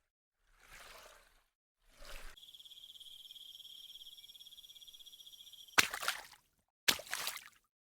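A calling insect's steady, rapid high-pitched trill lasting about three seconds, between short noisy rushes at the start and several sudden loud sharp bursts near the end.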